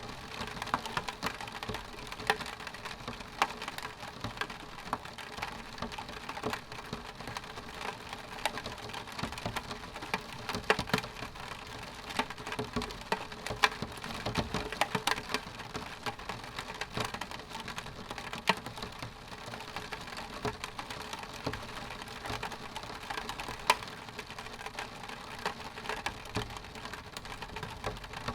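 Rain striking a window pane: a steady patter with many separate sharp drop ticks on the glass.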